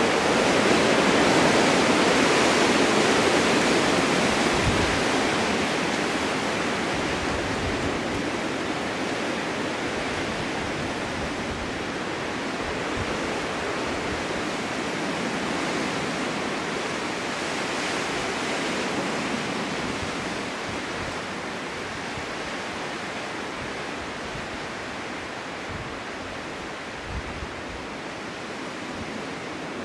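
Strong winter wind in a snowstorm: a steady rush of gusting wind, strongest in a gust at the start, then easing slowly.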